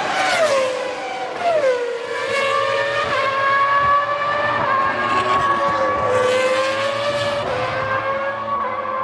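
Formula One V10 engine running at fairly steady, moderate revs. Its pitch drops twice in the first two seconds, then holds level.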